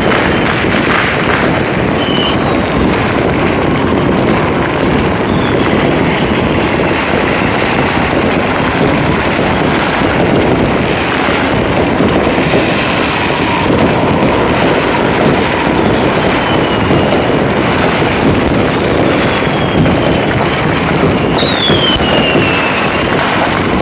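Many fireworks and firecrackers going off at once in a dense, unbroken barrage of bangs and crackling, with a few whistling rockets; one whistle falls in pitch near the end.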